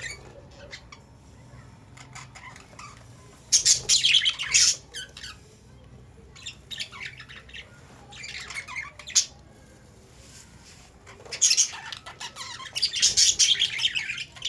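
Several caged Australian parrots squawking and chattering in high-pitched bursts: one about three and a half seconds in, shorter ones around seven and nine seconds, and a longer stretch of chatter near the end.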